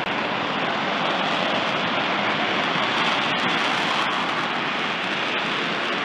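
The F-35B's Pratt & Whitney F135 jet engine in maximum afterburner: a steady rushing roar with no change in pitch or loudness.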